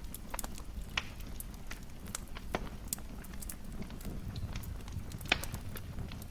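Fireplace fire crackling: irregular sharp pops and snaps over a steady low rumble of flames, the loudest pops about a second in and just past five seconds in.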